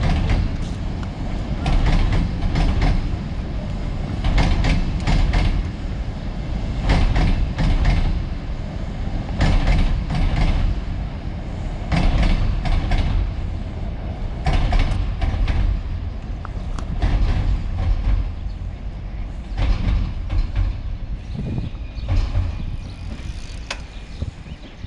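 Two coupled Lastochka (Siemens Desiro) electric trains crossing a steel railway bridge: a steady low rumble of wheels on rail, with paired clacks over the rail joints about every two and a half seconds. The sound fades over the last few seconds as the train moves away.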